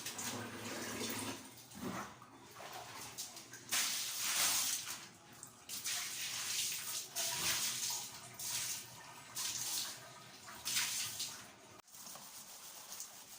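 Running water splashing in uneven surges in a bathroom during cleaning, stopping near the end.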